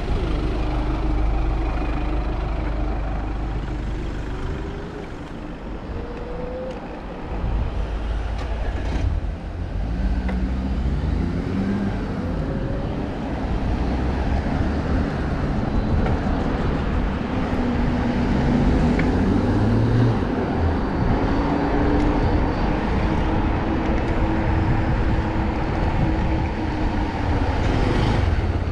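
City street traffic heard from a bicycle: car and larger vehicle engines running and pulling away, their pitch rising and falling, over a steady low rumble.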